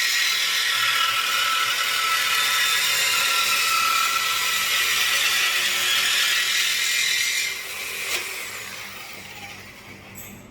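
A power tool working on the car's exhaust runs steadily with a high hiss, then stops about seven and a half seconds in. A single sharp click follows shortly after.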